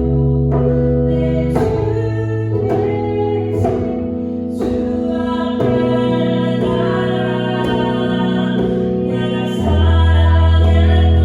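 Worship music: a woman singing a praise song over sustained instrumental accompaniment, with sharp djembe strikes about once a second.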